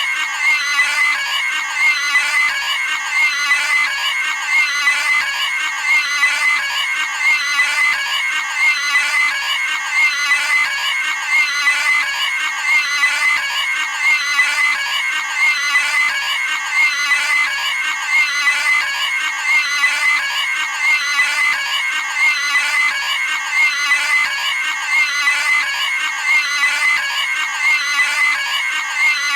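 Cartoon pig squealing: the same short, high scream from the cartoon sound effect looped over and over without a pause.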